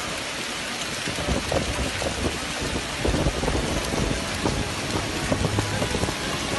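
Heavy rain pouring down, a dense steady hiss, with irregular low thuds and rumbles from about a second in.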